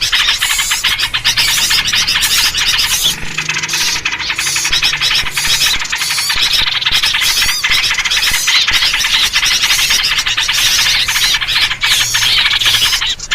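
Dense, continuous chorus of agitated small songbirds chattering and chirping, a bird-lure recording built on the calls of the bulbul known as trucuk. Noisy calls like these are alarm or mobbing chatter, used to draw other small birds in.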